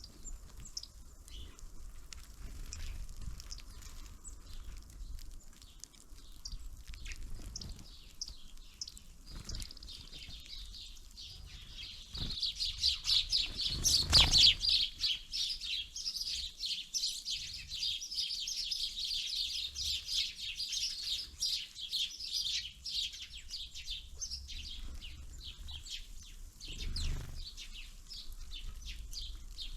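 Small songbirds chirping, a rapid string of short, high calls that builds about a third of the way in and thins out after the middle. A single sharp knock comes about halfway through.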